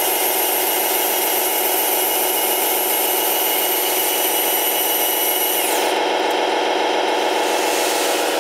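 Radio-controlled Scania model truck running, a steady whine of small motor and gears with high tones that slide down in pitch about six seconds in, as it slows.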